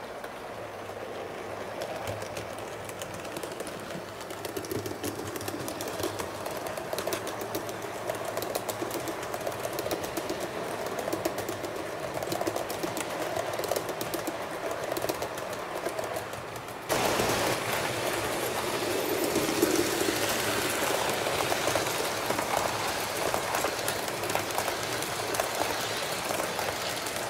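Train running on track, with a fast, dense clicking from the wheels and running gear over a steady rumble. About 17 seconds in the sound cuts abruptly to a louder, brighter passage of the same kind.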